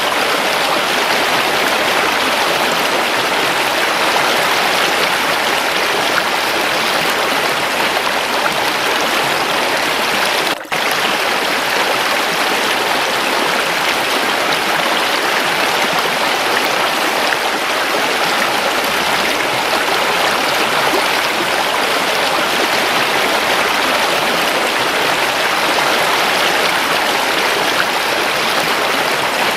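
Waterfall and running water rushing steadily, with one brief dip in level about ten seconds in.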